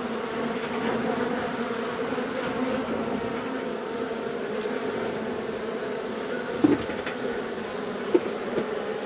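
Honey bee colony buzzing loudly and steadily: the bees are agitated and defensive, disturbed by the cutout. A couple of short knocks come near the end.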